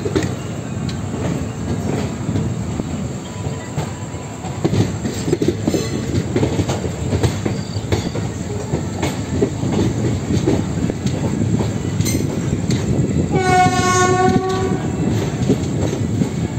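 Passenger train running, heard from the open doorway of a moving coach: steady rumble of the wheels with scattered clicks as they cross rail joints and points. Near the end a train horn sounds once, a single steady note lasting about a second and a half.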